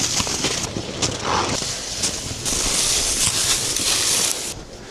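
Footsteps crunching in snow, an irregular series of soft crunches.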